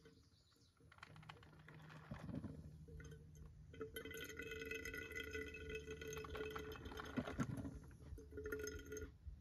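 Small battery-operated single-cup coffee maker perking as it brews: a faint steady hum with a few steady tones over it, stopping near the end when the brew is done.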